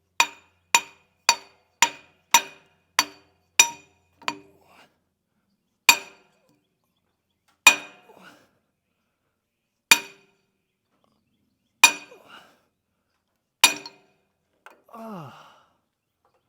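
Hammer blows ringing on a steel pin, driving the boom cylinder pin out of a 1997 Hitachi EX100-5 excavator. The clear metal-on-metal clinks come in a fast run of about nine, roughly two a second, then five slower blows about two seconds apart.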